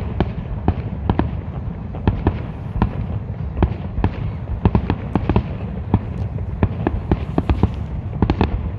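Fireworks display: many sharp bangs and crackles in quick, irregular succession over a continuous low rumble.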